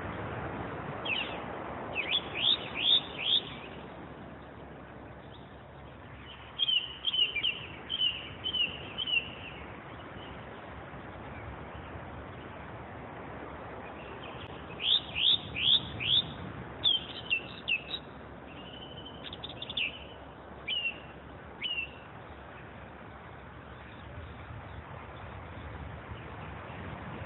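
A songbird singing in three bouts of quick, sharp, falling notes: near the start, again about a quarter of the way in, and in a longer run from about halfway to three quarters through. Under the song runs a steady low rush.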